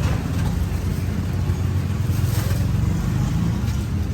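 A motor vehicle's engine running steadily in street traffic, a low continuous rumble.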